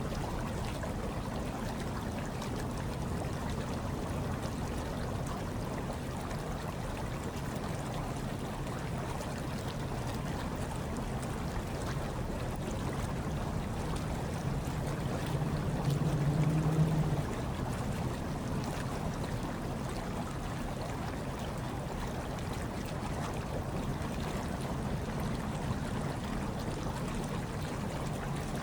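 Steady, low rushing of hot tub water. A little past halfway, a louder low hum swells for a second or so, then drops back.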